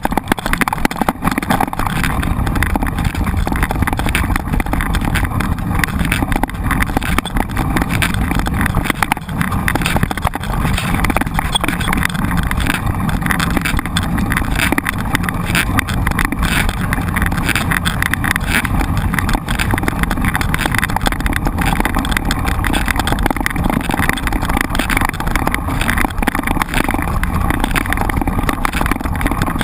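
Continuous riding noise from a mountain bike in motion: wind buffeting the microphone over tyre rumble and frame rattle on a rough dirt trail.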